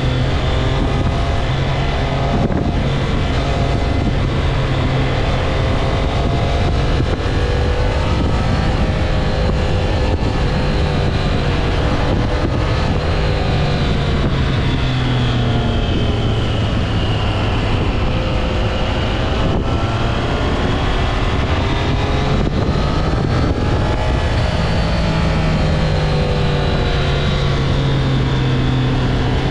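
Triumph Trident 660's inline three-cylinder engine running under way, its pitch rising and falling as the throttle and revs change, with wind buffeting the microphone.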